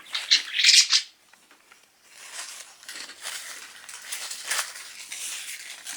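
Scratchy, crackling scraping and rattling of a budgie pecking and pushing at a plastic toy, after a brief sharp burst at the start and a moment's pause.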